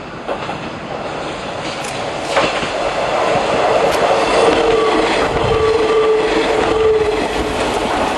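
Eizan Railway Deo 800 series electric railcar running past close by: the rumble of wheels on rail grows over the first couple of seconds, with a few sharp rail-joint clicks. A steady whine joins in for a few seconds as it goes by.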